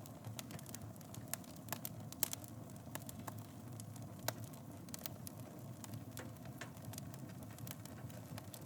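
Wood fire in a fireplace burning with a steady low rumble and irregular sharp crackles and pops, the loudest about two seconds in and again near the middle.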